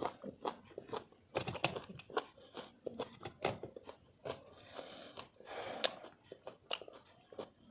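Close-miked chewing and biting of sour mango: wet crunching with many short mouth clicks, and two brief hissing sounds about five and six seconds in.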